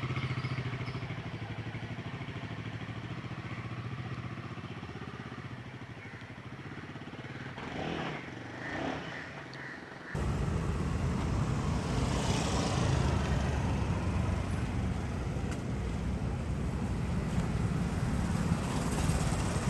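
Motorcycle engine running, its hum fading as the bike pulls away. About ten seconds in, the sound cuts abruptly to louder engine and road noise of a motorcycle being ridden.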